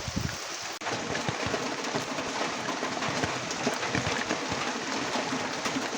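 Steady rain falling, a dense hiss of patter with many small drop ticks; the sound changes abruptly about a second in.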